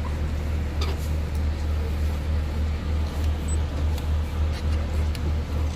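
Low, steady engine rumble with a slight regular pulsing, as heard aboard a running vehicle.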